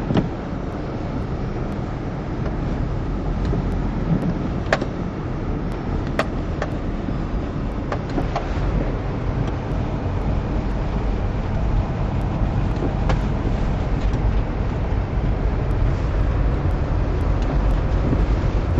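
Four-wheel-drive vehicle running, with a steady engine and road rumble and a few sharp knocks.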